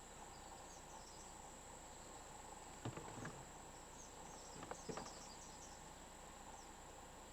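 Insects buzzing steadily in a high-pitched chorus, with a few short falling bird chirps. Two pairs of sharp knocks come about three and about five seconds in.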